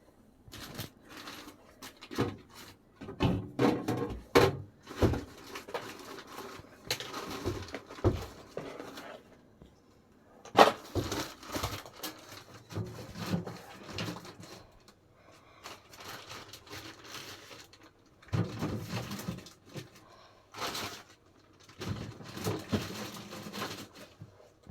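Irregular knocks, clatter and rustling of food and containers being handled and packed into a refrigerator.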